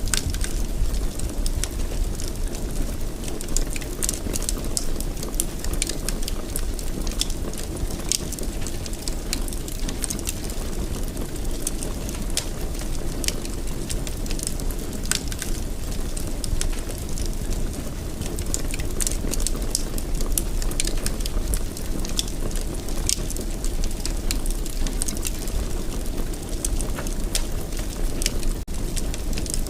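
Wood fire in a fireplace crackling steadily: a low rumble of burning under frequent small, sharp pops and crackles.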